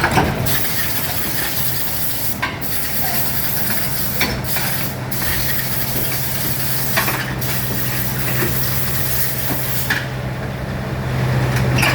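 Heavy-equipment diesel engine running steadily under a loud, even hiss, with several sharp metallic clanks.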